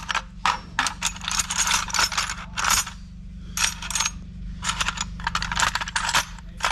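Irregular metallic clicks and rattles of small metal tools and hardware being handled, over a steady low hum.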